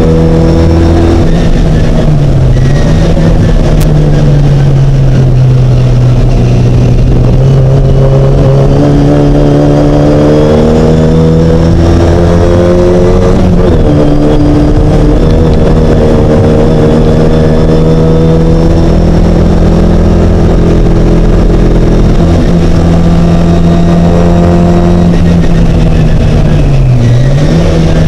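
Mini race car's engine running hard and loud under load. Its pitch holds and climbs slowly, with sharp dips about two and a half seconds in and near the end.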